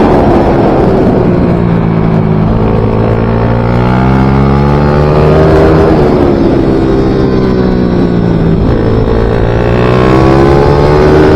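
Small racing motorcycle engine at high revs, running without a break. Its pitch sweeps down and back up several times, with a few sudden steps, as the rider shifts gear and brakes and accelerates around the track.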